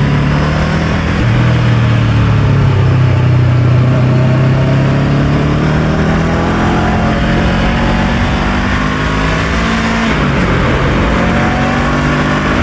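Honda NX500's parallel-twin engine running under way at fairly steady revs, over a steady rushing noise. The engine note shifts about a second in and again about ten seconds in.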